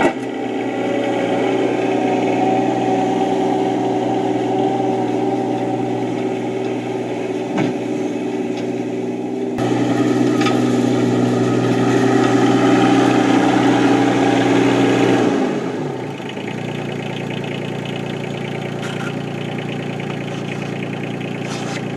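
Yanmar SC2450 compact tractor's diesel engine running at a steady speed, then falling in pitch to a lower, quieter speed about fifteen seconds in.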